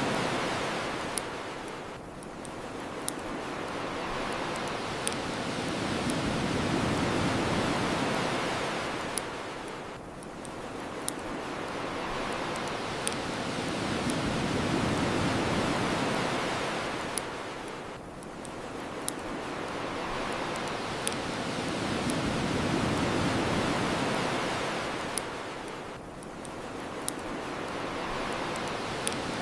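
Ocean surf washing ashore, swelling and falling back about every eight seconds, with sharp pops from a crackling wood fire every couple of seconds.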